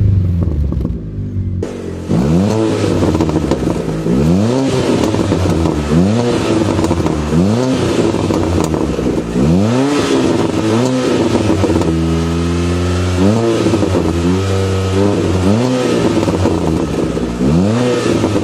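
Fiat Panda 100HP's 1.4-litre naturally aspirated four-cylinder engine. Its revs fall away at first, then it is blipped again and again from idle, each rev rising and dropping back, roughly once a second.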